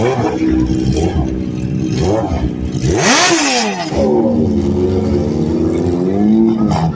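A car engine being revved, with short blips early on and then a hard rev about three seconds in whose pitch climbs steeply and falls back. It then holds at a steady higher rev for a couple of seconds before dropping off near the end.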